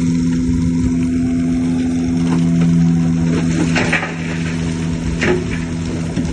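Heavy diesel engine of earthmoving machinery running steadily, with a few short knocks about four and five seconds in.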